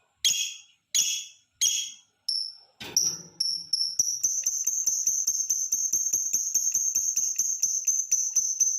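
Lovebird calling: four separate sharp, high chirps, then a brief rustle, then a quickening run of high notes that settles into a long, fast chatter of about five notes a second. This is the long 'ngekek' trill, used as a lure call to set other lovebirds singing.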